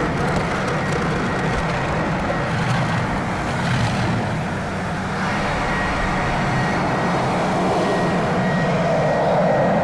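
Car wash equipment running, a steady loud noise with a low hum under it.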